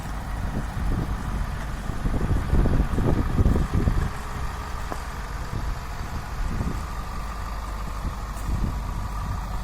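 Ford F-550 dump truck's engine idling with a steady low rumble, louder and rougher for about two seconds a couple of seconds in.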